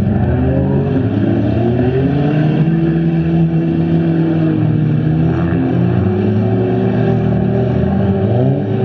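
Several stock front-wheel-drive cars' engines running and revving at once, their pitches rising and falling as the cars accelerate and slow on the dirt track.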